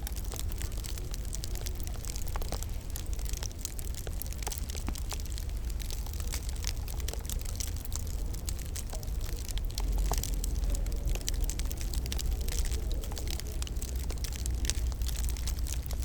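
Wood fire crackling in a fireplace: frequent sharp snaps and pops over a steady low rumble.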